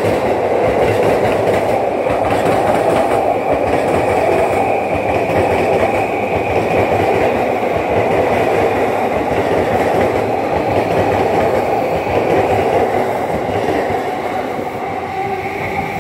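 JR East electric commuter trains running past close by: a loud, steady noise of steel wheels on rails with a thin high whine held above it.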